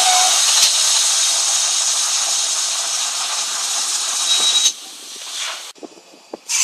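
Steam locomotive blowing off steam: a loud, steady hiss that drops away suddenly about five seconds in, with the end of a whistle tone at the very start.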